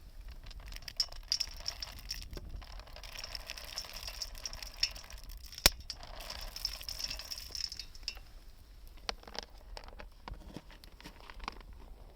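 Wood fire crackling and hissing, with scattered ticks and one sharp pop about halfway through.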